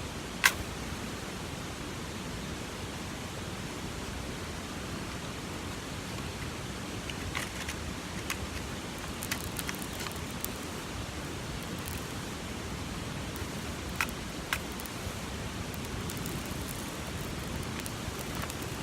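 Steady hissing outdoor background noise with a few sharp small snaps and clicks, a strong one about half a second in and a handful more later, while a campfire is being lit with matches and newspaper.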